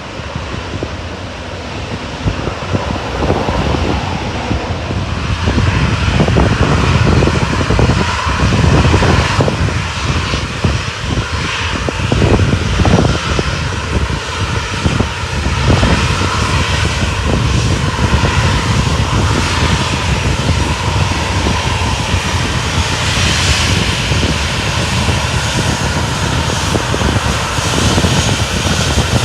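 Aircraft engines running loud, swelling over the first few seconds and then holding steady, with gusty wind rumbling on the microphone.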